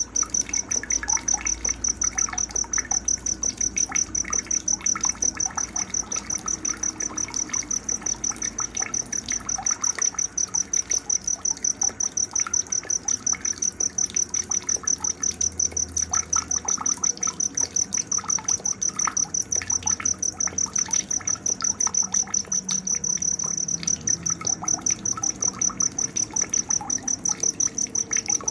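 A cricket chirping in a steady, even pulse, about four chirps a second, with scattered small bird chirps and calls underneath.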